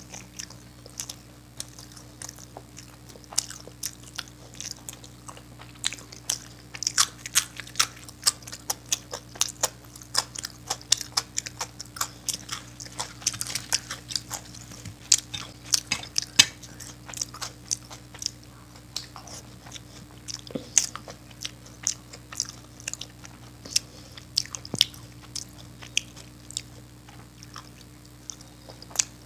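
Close-miked chewing and mouth sounds of a person eating by hand, mouthfuls of puri with dum aloo: irregular wet smacks and clicks, busiest in the middle stretch and sparser near the end. A faint steady low hum runs underneath.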